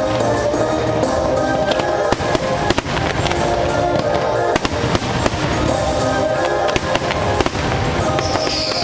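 Fireworks bursting with many sharp bangs, some in quick clusters, over the show's loud soundtrack music. A high falling whistle starts near the end.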